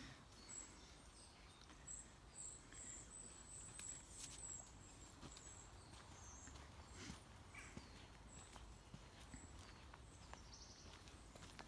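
Faint woodland ambience: thin, very high-pitched bird song chirping repeatedly, with soft scattered clicks and rustles of feet moving through undergrowth.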